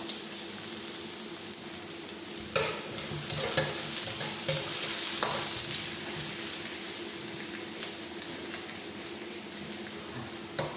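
Garlic and onion sautéing in hot oil, a steady sizzle, with a spatula knocking and scraping against the pan several times between about two and a half and five seconds in.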